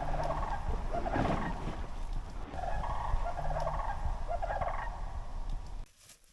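A bird calling in several quick rattling bursts, over a steady low wind rumble on the microphone. Both cut off suddenly about six seconds in.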